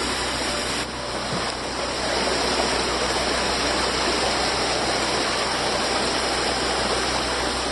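Running water of a rainforest stream, a steady rushing hiss.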